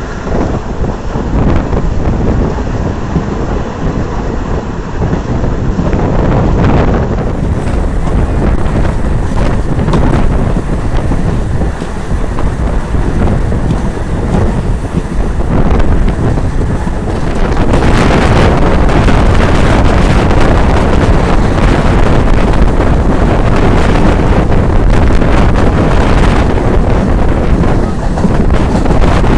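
Wind rushing over the microphone on a moving train, with the train's running rumble beneath it. The rush grows louder a little past halfway.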